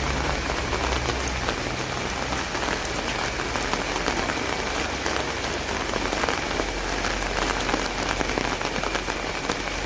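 Steady rain pattering on an umbrella, a dense stream of close drop ticks.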